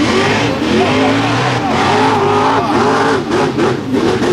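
Mega truck's big engine revving hard in a mud bog, its pitch surging up and down again and again as the throttle is worked, with rough crackling noise joining it in the second half.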